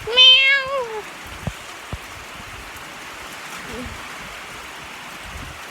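A domestic cat meows once, a drawn-out wavering call that drops in pitch at the end, over a steady hiss of rain, with a few light knocks after it.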